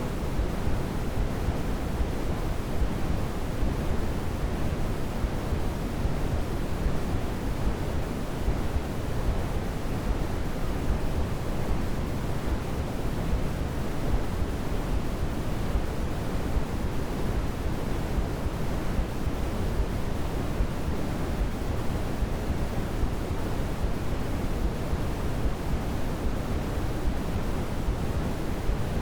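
Steady, unchanging sleep-aid noise for babies: an even, deep rushing hiss, strongest in the low end and soft in the highs.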